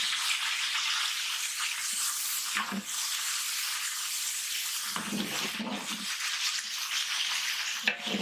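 A large batch of onions frying in hot ghee and oil: a steady sizzle.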